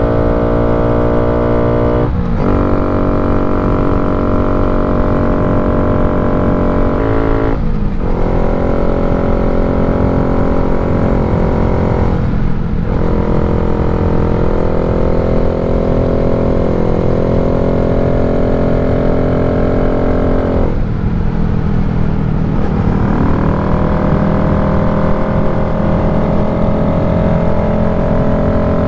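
2023 Honda Grom's 125 cc air-cooled single-cylinder engine with aftermarket exhaust, running steadily under way. Four times the engine note breaks off briefly and comes back at a different pitch, as the throttle is closed and reopened.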